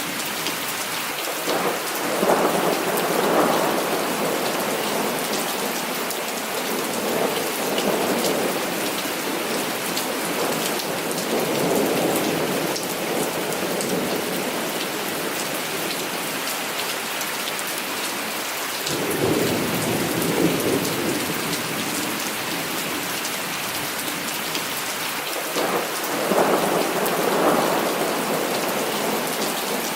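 Heavy rain falling steadily, with thunder rolling in again and again: five rumbles that swell and fade, the strongest about two seconds in and near the end.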